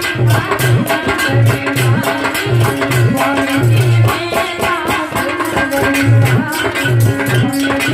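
Devotional bhajan music: a hand drum beating a quick steady rhythm with jingling percussion over it.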